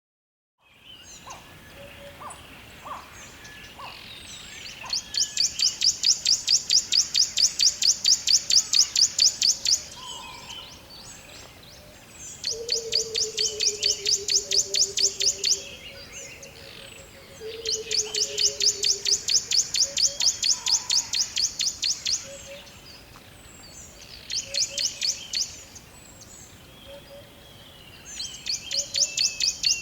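Birds calling in woodland: a high, rapid pulsed trill repeats in runs of several seconds and is the loudest sound, with scattered chirps between and two low, falling whistles near the middle.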